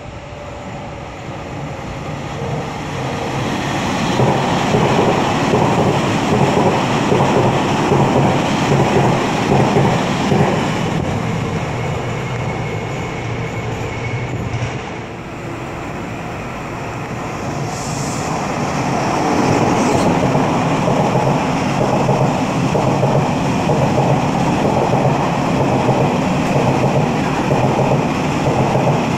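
Taiwan Railways train running past on the line. The noise builds over the first few seconds and stays loud, dips briefly about halfway, then builds again.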